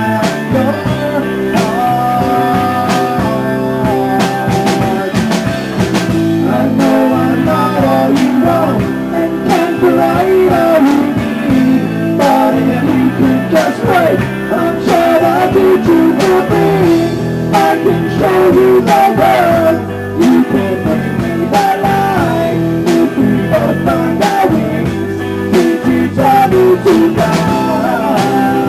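Rock band playing an instrumental passage of an original song: a guitar playing a wavering, bending melody line over bass and a steady drum beat.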